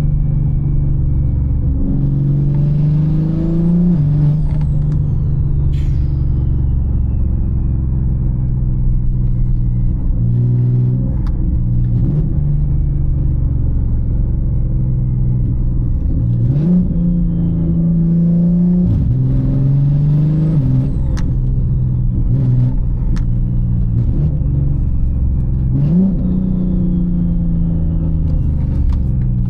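Single-turbo BMW G80 M3 inline-six heard from inside the cabin, pulling hard several times: the engine note climbs and drops at each upshift, then settles to steady cruising. A thin high whine falls away slowly after some of the pulls, with a few sharp clicks.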